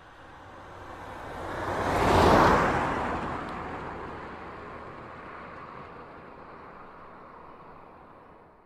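A car passing by: its road noise swells to a peak about two seconds in, then slowly fades away.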